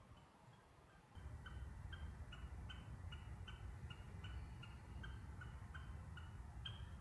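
A bird calling in a fast, even series of short high notes, about three a second, with a low rumble setting in about a second in.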